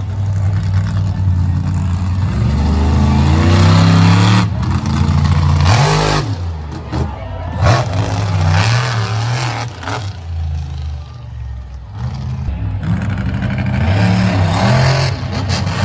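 Monster truck engine revving hard, its pitch climbing and falling repeatedly as the truck is driven on and off the throttle. Two short noisy bursts come about six and seven and a half seconds in.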